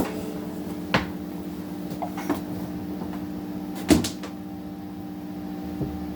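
A handful of sharp knocks and clicks of gear being handled, the loudest pair about four seconds in, over a steady low electric hum from a switched-on guitar amp.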